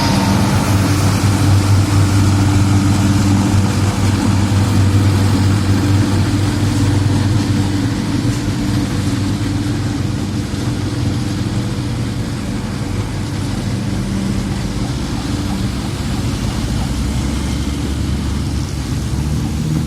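Heavy diesel engines of road-paving machinery running steadily with a low drone, a little softer after the first several seconds.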